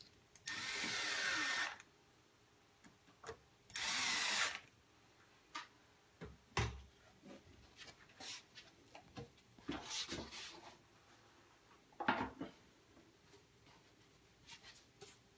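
Power drill driving screws into a pre-drilled PVC panel in two runs, the first about half a second in lasting about a second, the second shorter at about four seconds in. After that come scattered knocks and a thump as the PVC panels are handled.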